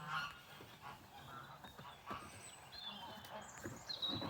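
Geese honking intermittently, with high thin bird calls near the end.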